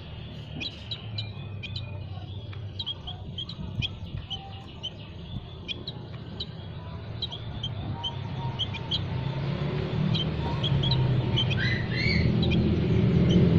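Small songbirds chirping: many short, high chirps in quick succession. A low rumble grows steadily louder in the second half.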